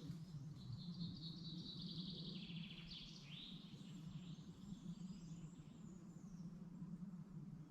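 A songbird sings one phrase of about three seconds: a rapid trill that steps down in pitch and ends in a short flourish, followed by a fainter, thin high note. A faint low steady rumble runs underneath.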